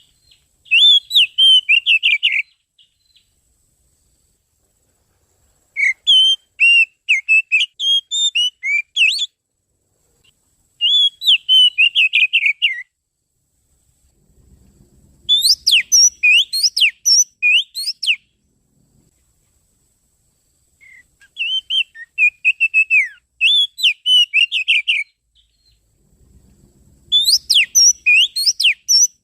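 Oriental magpie-robin (kacer) song used as a lure call: loud phrases of rapid, sweeping whistled notes, about six phrases of two to three seconds each, separated by short pauses.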